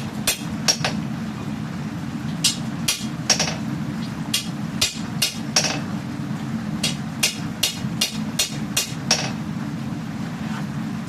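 Hammer blows on steel at the anvil while forging a katana blade: runs of three to eight ringing strikes, about two or three a second, with short pauses between runs, over a steady low rumble.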